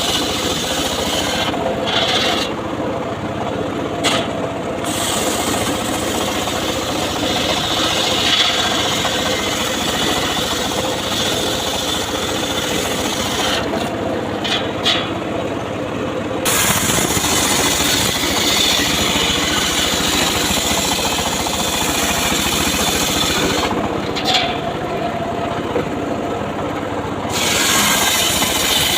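Homemade circular saw running and ripping through mahogany wood with a steady rasp. Three times the high cutting hiss drops away for a few seconds while the saw keeps running, then the cutting picks up again.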